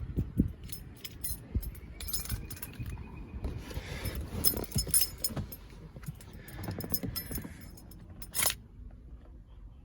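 Keys jingling and clicking in a hand, with light knocks from handling. The jingling comes in bursts and ends with one louder jangle about a second before the end.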